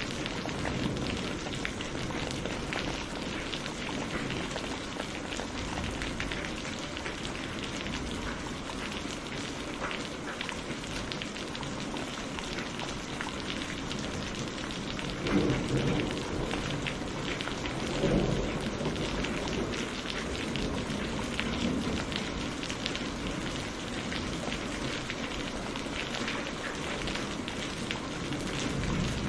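Steady heavy rain hissing, with low rumbles of thunder about 15 and 18 seconds in and a fainter one shortly after.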